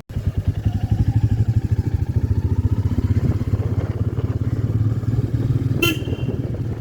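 Royal Enfield Meteor 350's single-cylinder engine running steadily under way, with a fast low thumping pulse. A short horn beep sounds about six seconds in.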